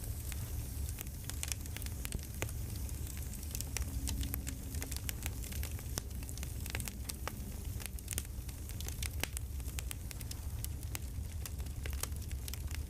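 Campfire crackling: a steady low rumble of burning with many sharp pops and snaps scattered irregularly throughout.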